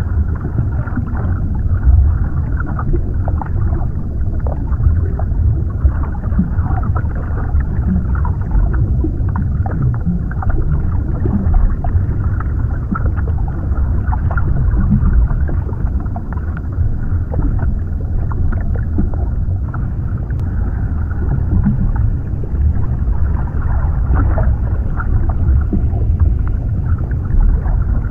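Underwater ambience: a steady, muffled deep rumble of moving water with faint scattered crackles and ticks.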